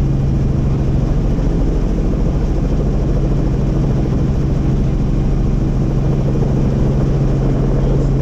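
Helicopter in flight: a steady, even drone of engine and rotor with a strong low hum, unchanging throughout.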